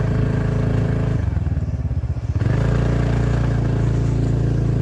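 Motorcycle or scooter engine running close to the microphone, steady apart from a choppy stretch about a second in.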